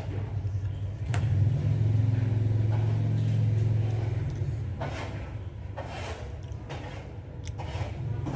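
A low droning rumble that swells about a second in and fades away after about four seconds, with a few short knocks and clicks over it.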